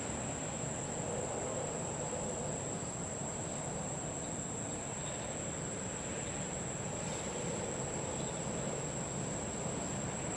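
Insects droning on one continuous high note over a steady rushing background noise.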